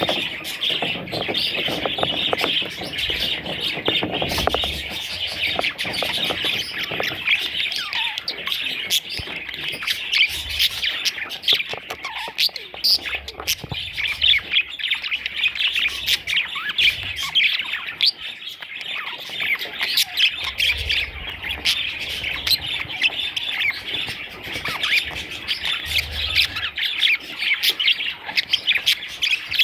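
Budgerigars chirping and squawking in a dense, continuous chatter of short overlapping calls.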